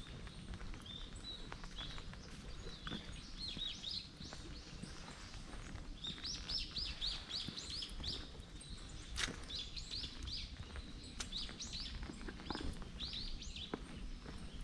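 Small birds chirping in trees: repeated short, high notes, some in quick runs of several notes, over a faint low background rumble.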